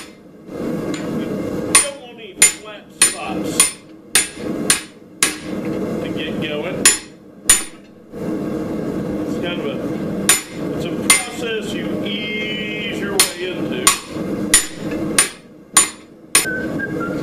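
Hand hammer striking a chop fuller to neck down Schedule 40 steel pipe: runs of sharp, ringing blows about two a second, with short pauses between runs, over a steady background noise.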